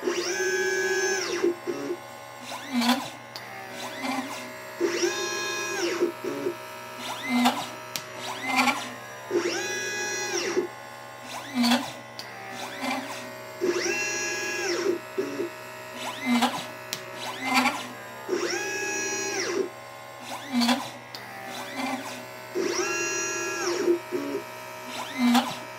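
LitePlacer pick-and-place machine's stepper motors whining as the gantry moves. Each move is a stack of tones that rises, holds and falls, repeating about every four and a half seconds with shorter blips between, as capacitors and resistors are placed one after another.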